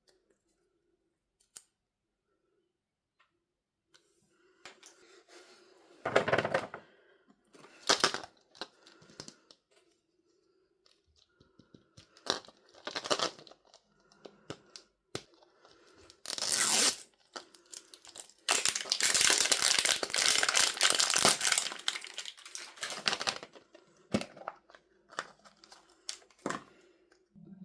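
Packaging being torn open by hand, with crinkling: a few short rips, then a long steady tear of about five seconds, followed by a few light clicks and crinkles.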